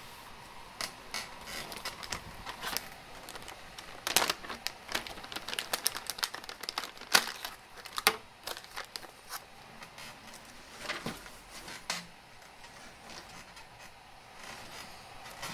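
Irregular sharp clicks and crinkling handling noises, coming in quick clusters and thinning out after about nine seconds, over a faint steady hiss.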